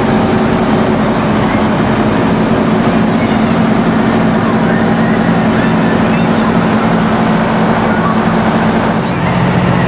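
Fire truck engine running steadily under a hiss of noise, its pitch dropping a little near the end, with children's voices and a few high shrieks in the background.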